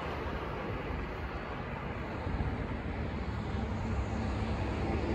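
Low, steady rumble of an Amtrak Acela Express trainset running away down the track after passing through the station at speed.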